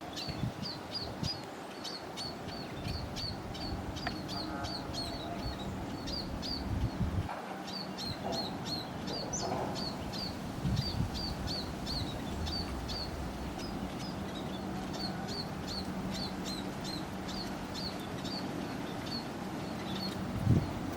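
Small birds giving short, high chirp notes, repeated about two to three a second almost without pause, with a steady low hum underneath.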